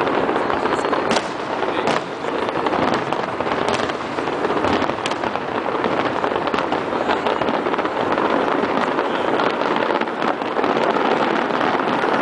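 Fireworks finale: a dense, continuous barrage of aerial shell bursts and crackling, with sharp bangs every fraction of a second over a steady rumble.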